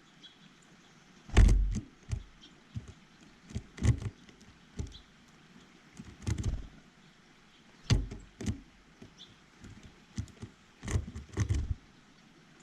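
Irregular knocks and taps on a bird feeder close to the microphone, some in quick clusters, from birds landing and pecking.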